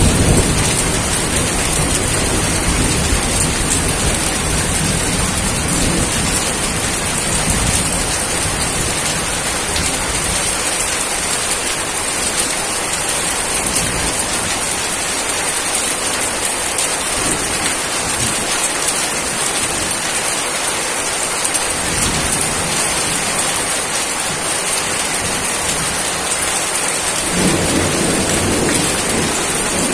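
Steady heavy rain falling, a constant hiss, with rolling thunder: a low rumble at the start that dies away over the first several seconds, and another rumble building near the end.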